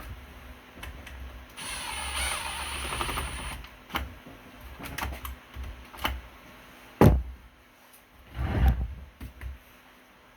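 Work and handling noises: about two seconds of a small mechanical whirr, then scattered clicks and knocks, the loudest a sharp knock about seven seconds in, followed by a brief rustle.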